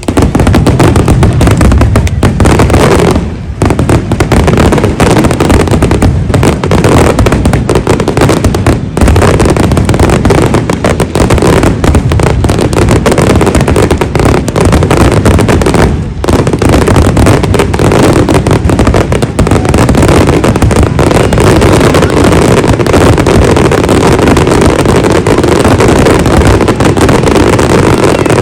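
A dense, continuous barrage of fireworks exploding, many bursts overlapping with hardly a gap, very loud, easing only briefly twice.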